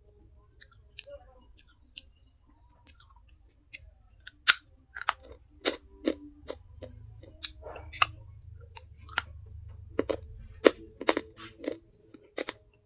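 Close-up crunching and chewing of pieces of baked clay pot (handi): a few scattered crunches at first, then a quick run of sharp, brittle crunches from about four seconds in.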